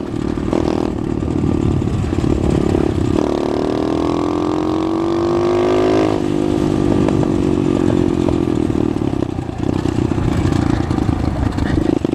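Pit bike engine running under way: it climbs steadily in pitch for about three seconds, drops sharply about halfway through as the rider shifts up, then holds a fairly steady pitch.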